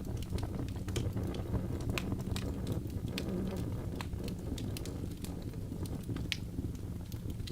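Birch logs burning in a fireplace: irregular sharp crackles and pops, several a second, over a steady low rumble of the fire.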